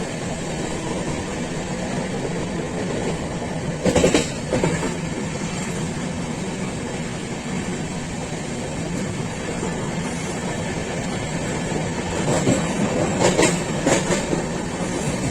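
Train running along the rails: a steady rumble, with wheels clacking over rail joints about four seconds in and again several times near the end.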